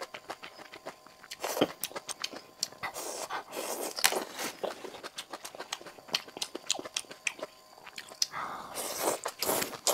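Close-miked chewing and biting of sauce-coated food, with a steady run of wet mouth clicks and smacks.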